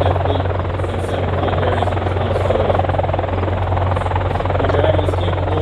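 MH-53E Sea Dragon heavy-lift helicopter flying, its rotors and T64 turboshaft engines making a loud, steady, rapid beating drone.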